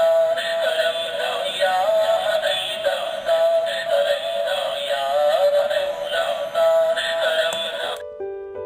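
A recorded azan, the Islamic call to prayer, played back from a sound-chip module: a single male voice singing long ornamented phrases, thin and tinny. About eight seconds in it cuts off and a plain electronic keyboard-like melody starts, the chip moving to its next stored sound.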